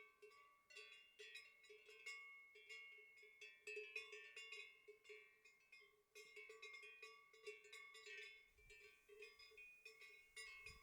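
Faint metal bells clanking and tinkling at an irregular pace, several ringing together.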